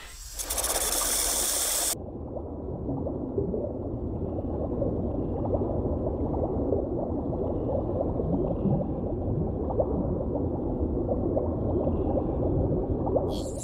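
A short burst of rushing, hissing water, then muffled underwater bubbling and gurgling that crackles on steadily.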